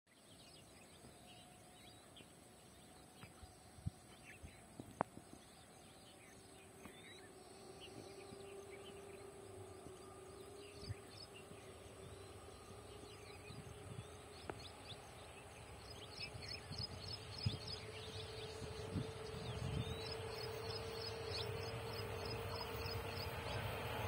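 Birds chirping over a quiet rural background, with a couple of sharp clicks about five seconds in. Through the second half the low rumble of an approaching electric-hauled express train grows steadily louder.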